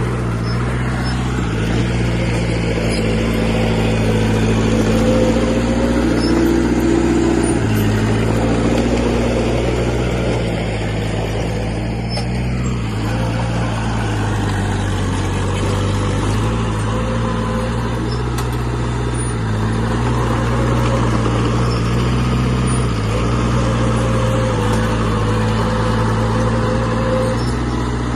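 A bulldozer's heavy diesel engine runs continuously, and its note shifts up and down every few seconds as the engine speed changes.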